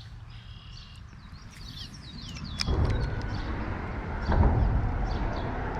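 Birds chirping, with several quick calls that swoop up and down during the first couple of seconds. About halfway in, a low rumbling noise comes in and becomes the loudest sound, with a few scattered clicks.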